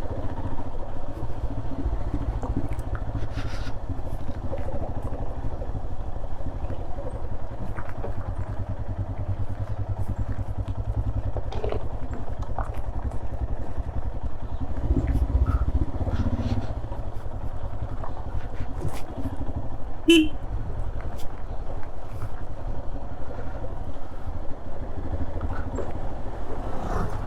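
Royal Enfield Himalayan's single-cylinder engine running steadily at low revs while the bike rolls over a rough, broken road, with scattered clicks and rattles from the machine and luggage. About two-thirds of the way through there is one brief, sharp, higher-pitched sound.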